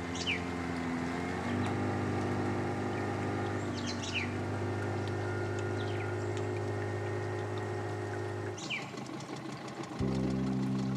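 Boat motor running steadily, its pitch changing abruptly about a second and a half in and again near the end. A bird's short, falling whistled call sounds about four times over it.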